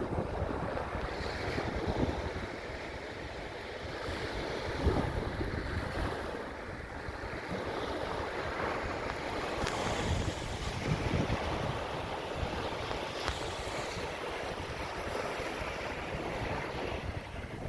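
Ocean waves washing in, with wind gusting across the microphone and buffeting it.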